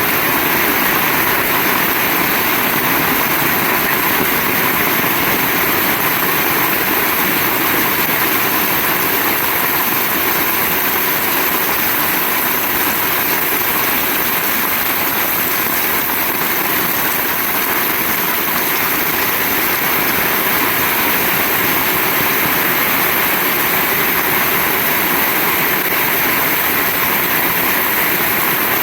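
Very heavy rain pouring down steadily, an even dense hiss with no breaks.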